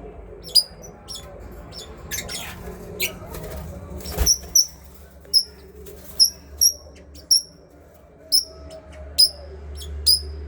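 Pet parrots calling: a run of short, sharp, high chirps repeated roughly once a second, over a low steady hum, with a single knock about four seconds in.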